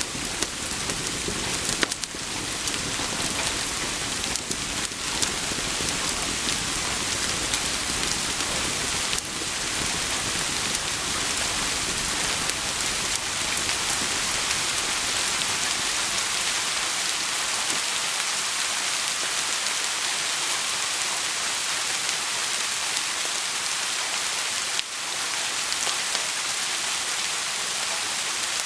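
Steady heavy rain pattering on a surface, with a few sharp clicks. A low rumble underneath dies away about halfway through.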